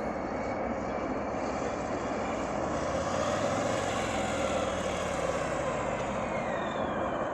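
A Harley-Davidson Fat Boy being ridden at speed: a steady rush of wind and engine noise that grows a little louder about three seconds in, with faint sliding whines higher up near the end.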